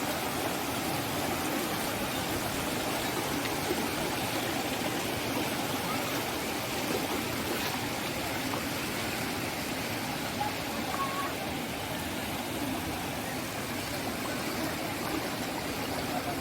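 Thenpennai river water flowing, a steady continuous rush with no break.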